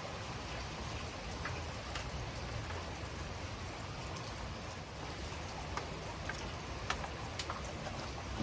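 Steady heavy rain falling, with scattered sharper ticks of individual drops landing close by.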